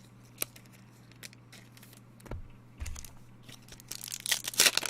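Trading-card pack wrapper crinkling and tearing in a dense burst from about four seconds in, after a few light clicks of cards being handled, over a low steady hum.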